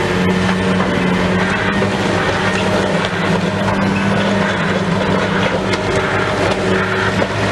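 Heavy diesel demolition machinery running steadily with a constant low hum, with scattered clanks and knocks.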